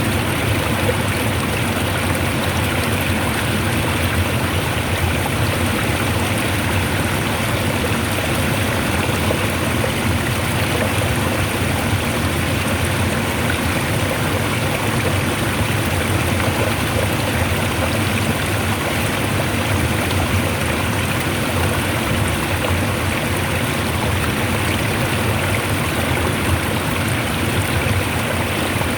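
Rushing water flowing strongly, a loud, steady, unbroken rush.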